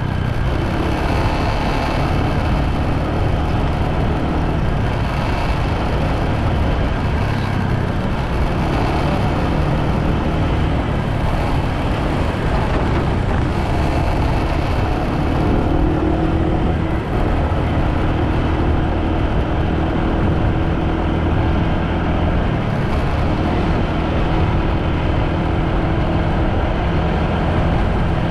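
Motorbike running steadily at riding speed, its engine note under a steady rush of road noise, shifting slightly in pitch about halfway through.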